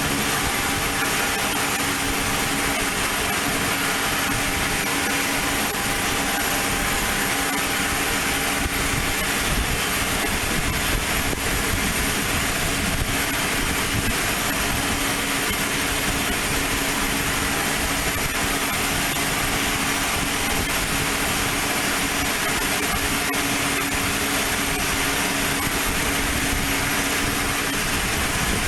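Aircraft engine running with a steady, unchanging drone that carries a few held tones.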